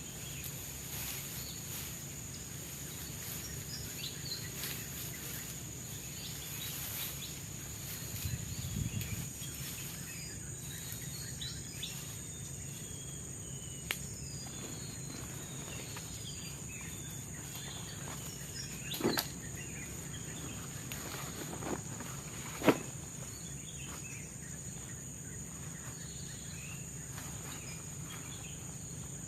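Steady high-pitched drone of forest insects, with scattered bird chirps and a few sharp knocks, the loudest near the end.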